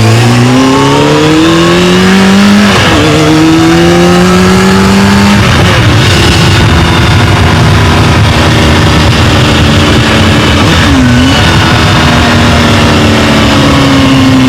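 Engine accelerating through the gears, loud throughout. Its pitch climbs slowly and dips at each shift, about three, five and a half and eleven seconds in, then holds high and steady near the end.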